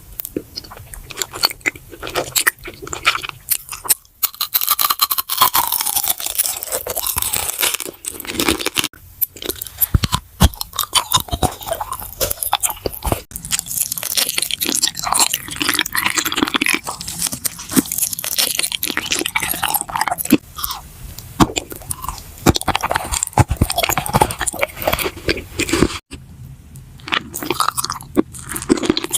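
Close-miked eating sounds: crunching bites and chewing, a dense run of crisp crackles, easing off briefly near the end.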